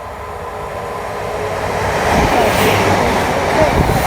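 Class 156 diesel multiple unit approaching and running through the station at speed without stopping, its rumble and wheel-on-rail noise building from about two seconds in, with a faint squeal from the wheels.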